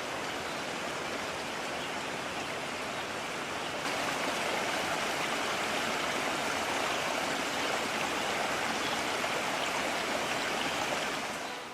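Mountain stream rushing steadily over rocks. It gets louder about four seconds in and fades out near the end.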